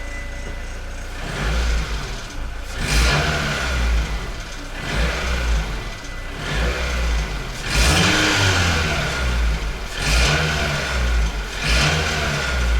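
Mitsubishi 4A92 1.6-litre four-cylinder engine being revved in repeated swells every second or two, with a knock from the head that is taken for the 4A92's typical piston slap on a high-mileage engine.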